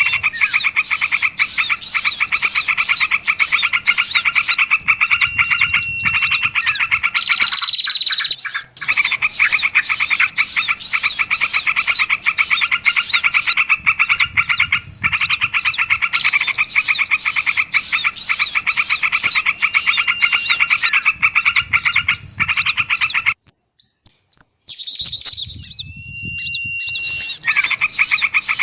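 Several small songbirds calling at once, a dense stream of fast, repeated high chirps layered over one another, mixed as bird-lure calls. The chirping stops briefly about seven and a half seconds in and again for a second or two about 23 seconds in.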